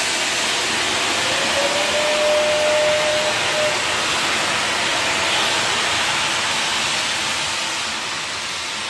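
Steam locomotive venting steam: a loud, steady hiss that fades away near the end. A faint thin tone rises slightly about a second and a half in and holds for about two seconds.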